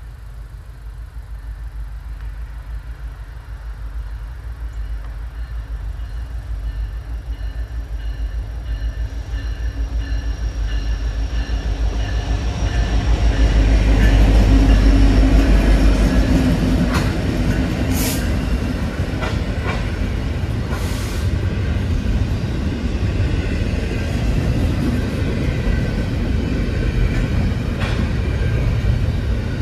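Canadian National diesel-hauled freight train passing a grade crossing. The rumble builds to its loudest about halfway through as the locomotives go by, then double-stack intermodal container cars roll past steadily with a few sharp clanks.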